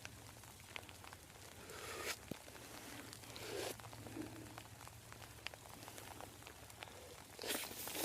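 Faint rustling of wet grass being handled, with scattered light ticks and drips and a few short rustles, about two seconds in, around three and a half seconds in, and near the end.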